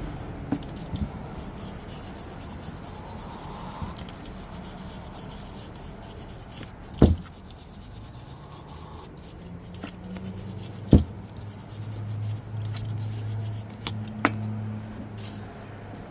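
Starter parts being rubbed and wiped with a rag after a spray of electrical contact cleaner, a steady rubbing sound broken by a few sharp knocks. A low steady hum comes in over the last few seconds.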